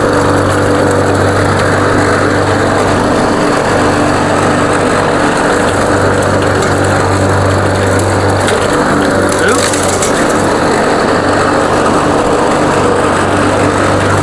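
Walk-behind lawn mower's 140cc Powermore single-cylinder engine running steadily while cutting grass, being run to bring it up to full operating temperature.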